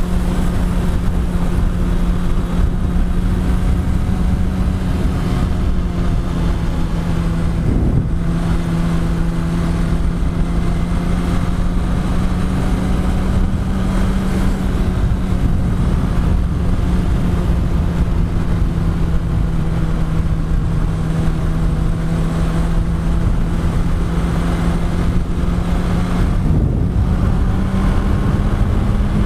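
Yamaha R1's inline-four engine running at a steady cruising speed under a heavy rush of wind noise. The engine note shifts briefly about eight seconds in and again near the end.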